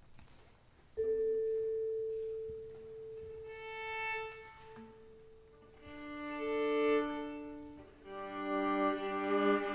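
Viola and vibraphone playing a slow, quiet minimalist piece. It enters suddenly about a second in with a long held note, then further sustained notes swell and fade and are layered together near the end.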